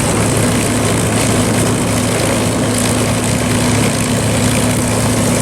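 P-51 Mustang's V-12 piston engine running steadily on the ground, a constant low drone.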